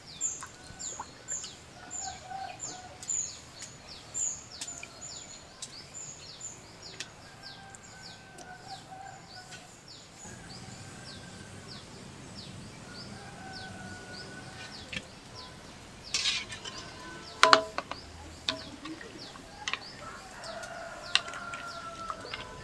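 Chickens calling in the background while a small bird chirps over and over in short, high, falling notes, about two a second, for the first half. A few sharp knocks come near the end.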